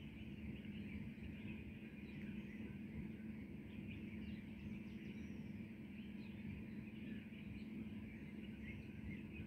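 Faint birds chirping and calling, many short scattered chirps, over a steady low hum of distant background noise.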